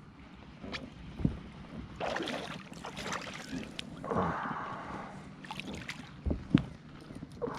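A hooked bass splashing at the water's surface beside a kayak as it is reeled in and landed, with a few knocks against the kayak.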